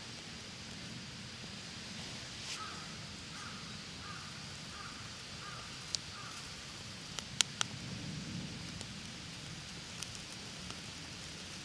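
A crow cawing, six short caws about half a second apart, over a steady outdoor hiss, with a few sharp clicks in the second half.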